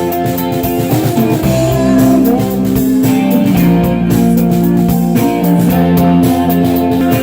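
Indie rock band playing live: electric guitars ringing out held chords and notes over bass and drums, with no singing in this stretch.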